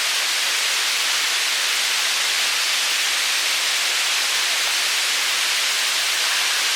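Kuang Si Falls' cascading water rushing as a steady, even hiss, strong in the highs with little low rumble.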